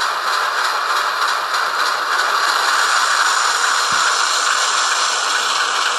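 Hornby Class 08 model shunter's DCC sound decoder playing its diesel engine sound through the model's small onboard speaker: a steady, thin, hissy running sound with little bass. A brief low thump about four seconds in.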